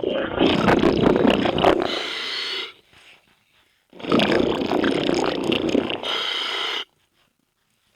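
Underwater scuba breathing: two long bursts of exhaled bubbles rumbling out of a diver's regulator, each about three seconds, with near silence between and after.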